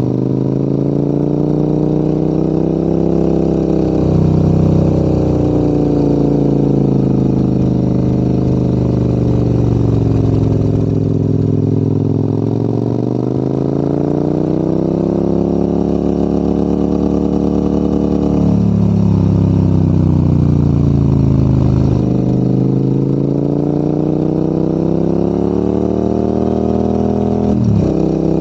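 Maxi-enduro motorcycle engine pulling up a mountain pass, its pitch rising and falling as the rider opens and closes the throttle through the bends. It drops sharply three times, about two-thirds of the way in, a few seconds later, and near the end, as at gear changes.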